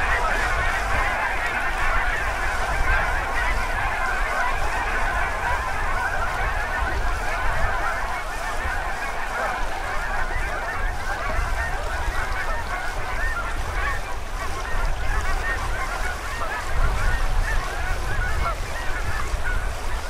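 A large flock of geese honking, many birds calling over one another in a dense, continuous chorus, over a low rumble.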